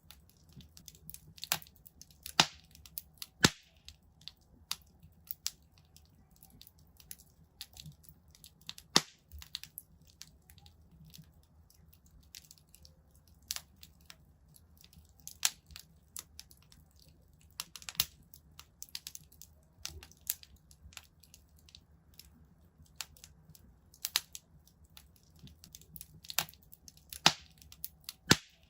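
Wood fire crackling in a fireplace: irregular sharp pops and snaps, some much louder than others, over a faint low rumble.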